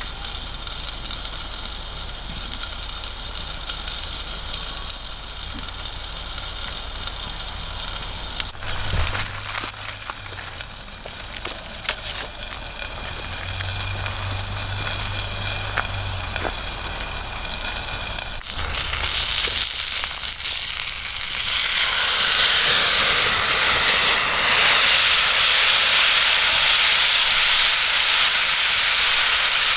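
Hamburger steak sizzling in a cast iron skillet over a campfire, with the fire crackling. A sharp knock comes about two-thirds in, and soon after the sizzle swells into a much louder, steady hiss.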